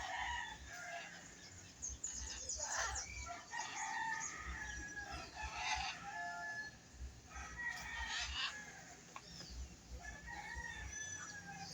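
Several birds calling over one another in repeated clusters, some calls held briefly at one pitch, over a low uneven rumble.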